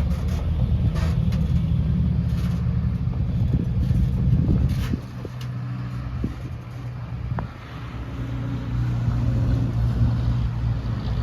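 Heavy diesel engine of earthmoving machinery running steadily, with a few faint knocks.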